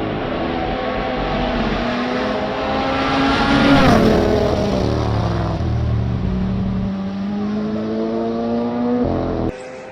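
Rally car passing at speed on a stage: the engine note climbs, is loudest about four seconds in with the pitch dropping as it goes by, then climbs again as the car accelerates away. The sound cuts off abruptly near the end.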